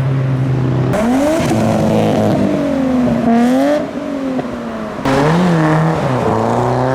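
Modified cars' engines revving as they drive past, the engine note rising and falling. The sound changes abruptly twice, about a second in and again about five seconds in.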